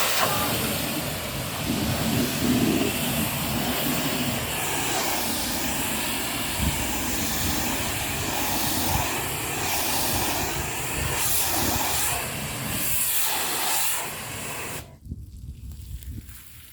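High-pressure water spray hissing steadily against a truck's body, wavering as the jet moves, then shutting off abruptly near the end.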